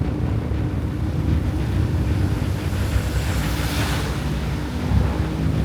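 Motorcycle engine running under steady wind rush on the microphone as the bike rides along. A hiss swells and fades about three and a half seconds in.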